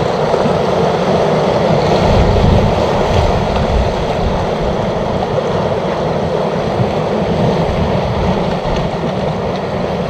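Sea waves washing against shoreline rocks, a steady rushing noise without let-up.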